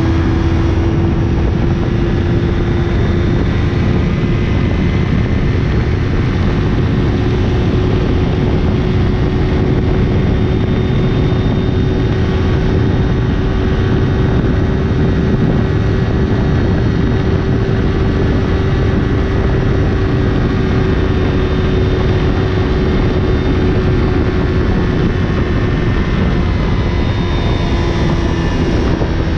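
Yamaha YZF-R3's parallel-twin engine held at high rpm through a LeoVince LV10 exhaust near the bike's top speed, a steady high drone under heavy wind rush. The pitch creeps up slightly and then drops a little near the end as the bike slows.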